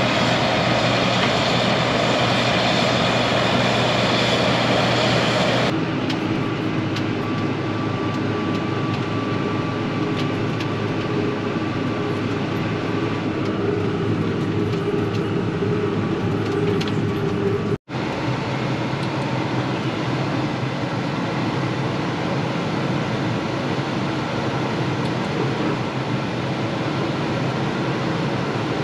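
Heavy farm vehicle's diesel engine running steadily. The sound changes abruptly about six seconds in and drops out for an instant about two-thirds through.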